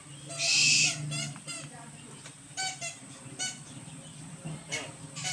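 An owl gives a harsh hissing screech lasting about half a second, followed by a string of short, high squeaks.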